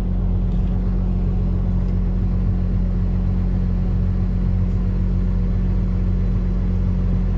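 John Deere 8370R tractor's diesel engine running at a steady speed while underway, an even low drone with no change in pitch.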